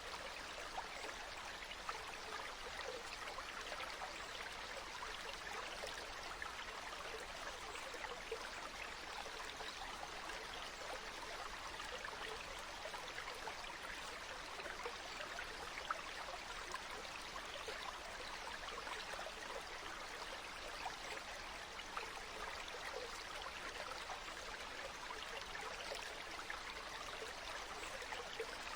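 Flowing water of a small stream, a steady babbling trickle with scattered small splashes.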